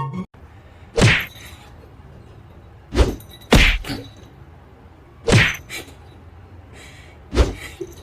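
Five sharp knocks or thuds at uneven spacing, two of them close together in the middle, over a low steady hiss.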